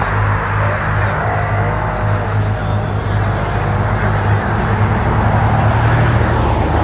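Performance car engine idling with a steady low exhaust rumble, swelling slightly near the end.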